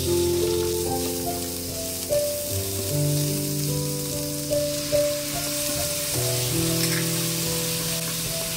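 Pork belly and chopped garlic sizzling in a frying pan as they are stirred and turned with a wooden spatula. Background music with held notes plays over it.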